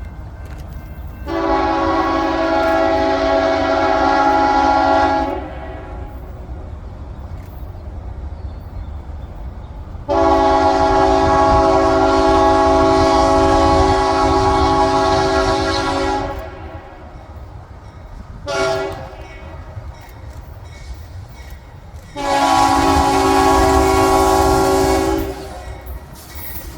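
Diesel locomotive air horn sounding a chord in the grade-crossing pattern: long, long, short, long, with the last long blast ending near the end. A steady low rumble runs underneath.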